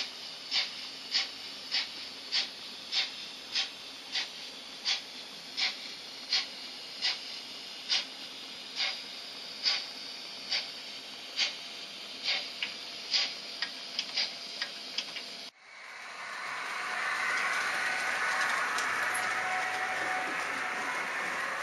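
Märklin H0 model train running on K-track: sharp rhythmic clicks, at first about one and a half a second and quickening to about three a second. About fifteen seconds in it cuts off abruptly and gives way to a steady rushing rattle of a model train rolling along.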